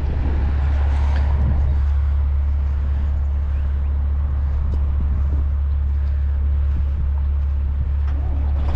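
Heavy diesel truck engine idling steadily, a loud, even low rumble.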